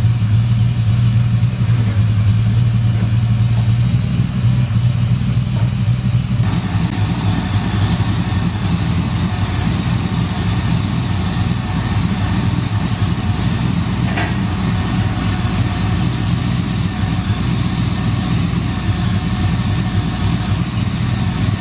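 V8 car engine idling steadily with a deep, even note; about six seconds in, a little more mid and upper noise joins it.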